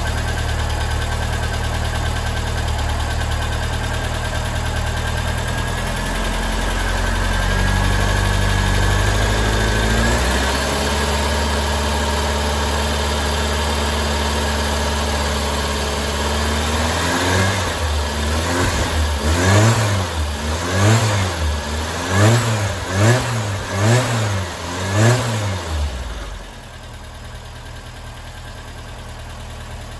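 Supercharged VW air-cooled flat-four with an AMR500 supercharger and IDF downdraft carburettor, running on a test stand just after its first start. It idles steadily, is held at higher revs for a few seconds, then is blipped sharply on the throttle about six times in quick succession before its sound falls away sharply about four seconds before the end.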